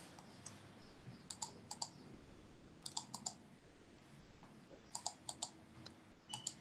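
Keys being tapped in a few short, quick groups of faint clicks, entering a calculation whose result is then read out.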